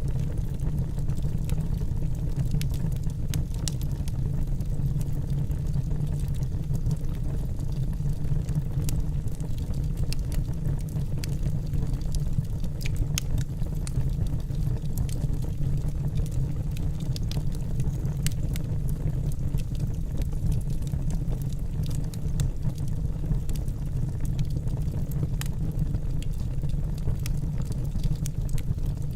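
Wood fire burning in a fireplace: a steady low rumble of the flames with many scattered sharp crackles and pops from the burning logs.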